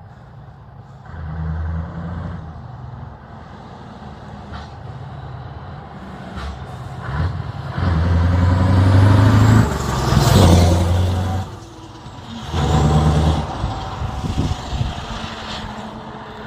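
Scania R500's V8 diesel engine with an open exhaust pipe, revved in bursts: briefly about a second in, long and loud from about 8 to 11.5 seconds, and again near 13 seconds, running lower between them. A brief sharp hiss comes during the loudest rev.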